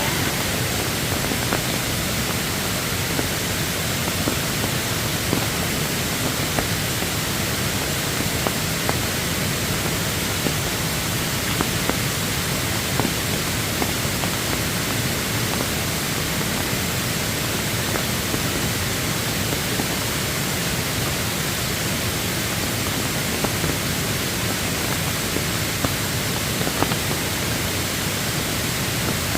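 Steady rush of a rain-swollen forest stream in flash flood, fast-flowing floodwater, with a few faint ticks.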